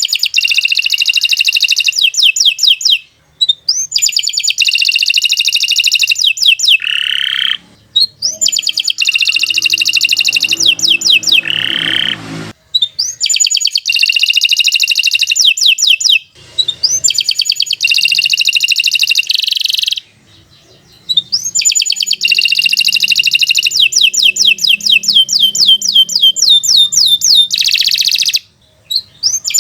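Domestic canary singing long phrases of very fast trills and rolls, separated by brief pauses of a second or so.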